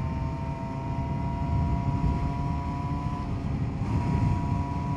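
Two-stroke 50 cc scooter engine running at a steady cruising speed, a low rumble with a high steady whine that briefly drops out a little past halfway.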